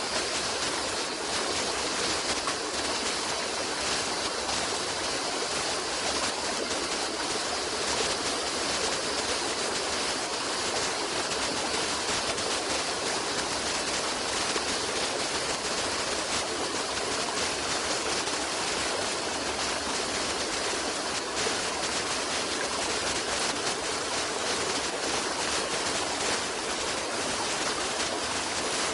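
Stream water flowing and rushing steadily, an even hiss with no breaks or changes.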